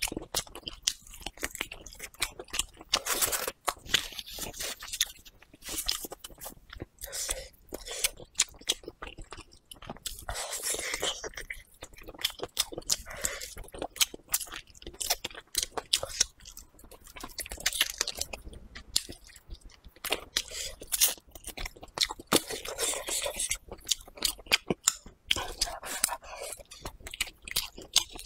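A person chewing and biting braised pig trotter close to the microphone, with many quick, sharp, irregular clicks and wet mouth sounds.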